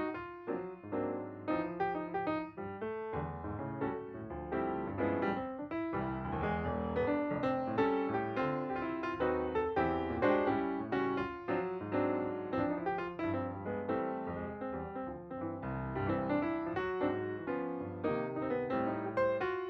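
Background piano music: a steady run of many quick notes and chords.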